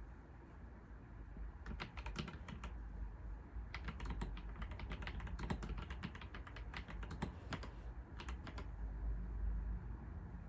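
Computer keyboard typing in three bursts of rapid keystrokes, a short one about two seconds in, a long run from about four to eight seconds, and a brief one after, over a steady low hum.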